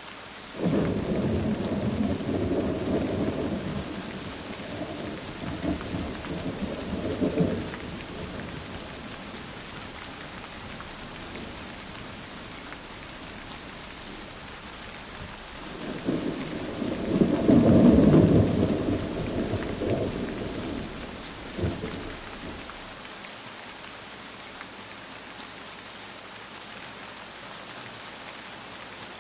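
Steady rain with two long rolls of thunder, the first rumbling in just after the start and fading after about seven seconds, the second building about sixteen seconds in, loudest near eighteen seconds, then dying away.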